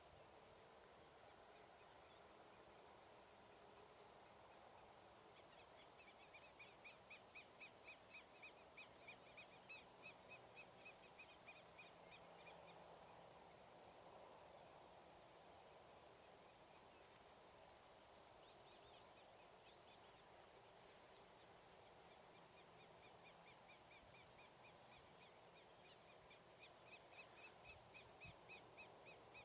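A bird calls faintly in two runs of short repeated notes, a little over two a second, over a steady hiss of outdoor background noise.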